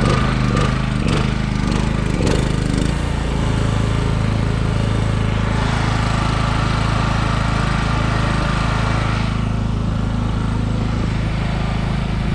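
An engine running steadily with a low, even drone, with a few sharp knocks or clanks in the first three seconds.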